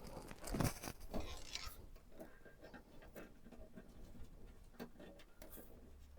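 Hands handling computer parts: a few light knocks and clicks with some rustling, the loudest knock about half a second in.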